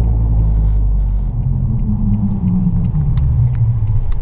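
Pickup truck engine and road rumble heard from inside the cab, the engine note climbing and then dropping about halfway through.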